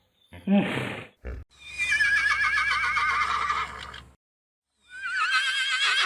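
Horse whinnying twice: a long, quavering neigh that falls in pitch, then after a short pause a second one starting near the end. A short breathy blow comes just before the first.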